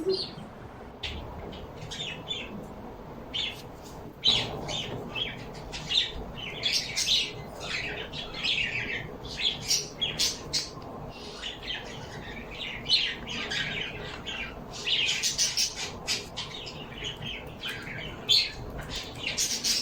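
Pet birds chirping and squawking in quick, overlapping calls, thickening after about four seconds.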